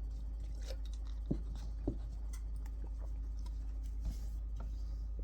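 A few soft taps and rustles of tarot cards being handled, over a steady low hum.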